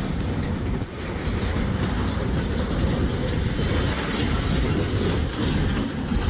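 Canadian Pacific train rolling slowly over the rails with a steady low rumble and clatter of its cars, during the derailment in which it tilts off the tracks.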